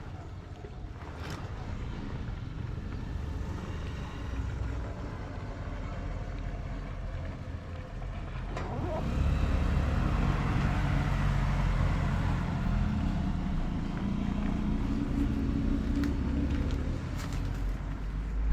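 A motor vehicle's engine running close by: a low rumble that gets louder about nine seconds in and stays up.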